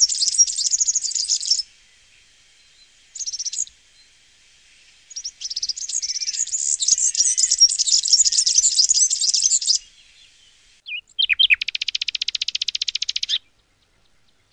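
Songbird song: bouts of rapid, high twittering notes separated by short pauses, then, near the end, a quick sweep and a fast, even trill that stops suddenly.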